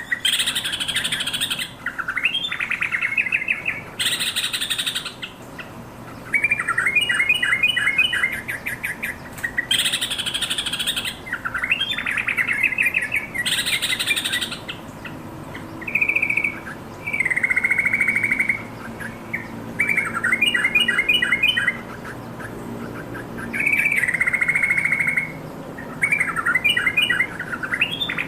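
Yellow-vented bulbul singing: a string of short, bubbly chattering phrases, one after another with brief gaps. A few of the phrases are harsh and scratchy.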